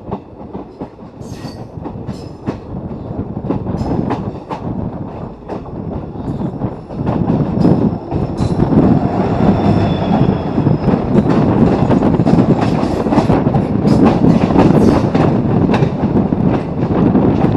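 Trains passing at close range, wheels rumbling and clacking over rail joints, growing louder about seven seconds in. A faint high wheel squeal comes in briefly about halfway through.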